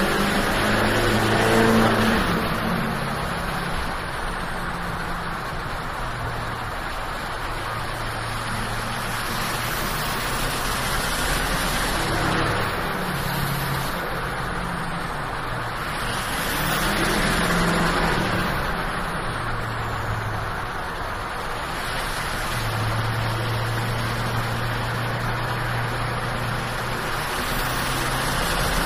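Duramax LMM 6.6-litre V8 turbodiesel working under load while towing a heavy fifth-wheel trailer, running with a steady drone over road noise. Its turbocharger whistles on top, the whistle rising and falling in pitch several times.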